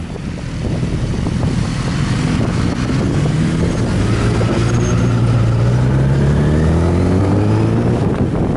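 A vehicle engine running over a rush of wind noise. Its pitch climbs slowly through the first half, then eases off a little near the end.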